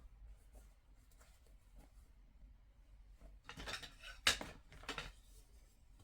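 Small handling sounds: a brief rustle, a sharp click about four seconds in, then another short rustle.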